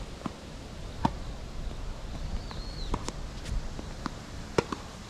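Tennis balls struck by rackets and bouncing on a hard court: a series of sharp pops at uneven intervals, with a short high squeak a little past two seconds in. Low rumbling wind noise runs underneath.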